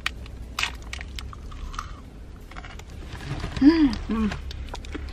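Close-up crunching and chewing of a peanut-and-chocolate bar: brittle cracks of whole peanuts being bitten through. About three and a half seconds in, a brief muffled vocal sound with rising and falling pitch.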